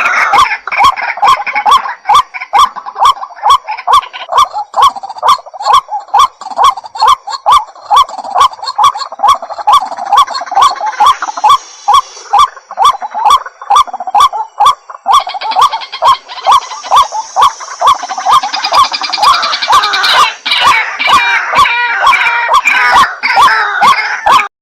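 White-breasted waterhen calling: a loud note repeated about twice a second, with a busier, higher layer of calls joining after about fifteen seconds. It cuts off suddenly near the end.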